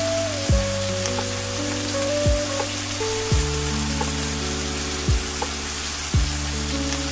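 Steady hiss of rain under slow ambient music of long held notes, with five soft deep thuds that drop in pitch, one every one to two seconds.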